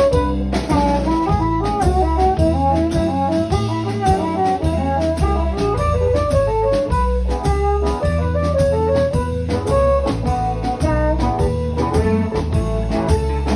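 Live blues band playing an instrumental break: a lead instrument runs quick melodic phrases over a steady bass line and a regular drum beat.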